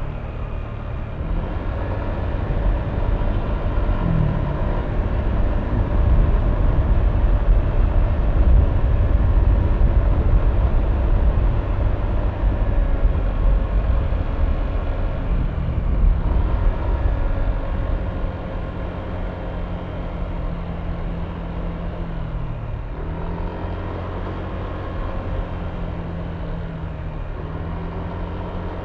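Yamaha Aerox V3 scooter's single-cylinder engine running under way, with wind and road noise, louder through the first half. About two-thirds of the way in it eases to a quieter, steadier engine note.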